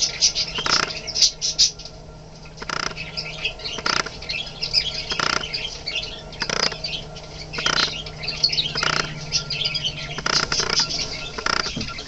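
Budgerigars chattering and chirping busily, a stream of quick high squawks and tweets. A short lower sound repeats about every second and a quarter under the chatter, over a steady low hum.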